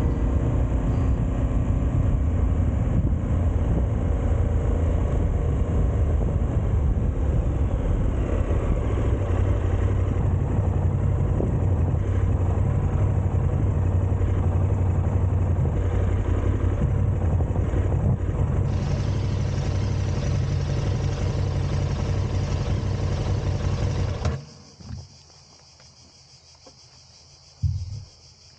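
KTM 1290 Super Adventure R's V-twin engine running steadily under way, with wind noise over it. It cuts off abruptly about 24 seconds in, leaving a quiet background broken by two short thumps.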